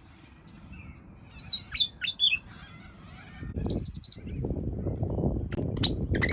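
A bird calling: a few short chirps sliding downward, then a quick run of about six high, even notes a little before halfway, and more chirps near the end. A low rushing noise runs underneath from about halfway.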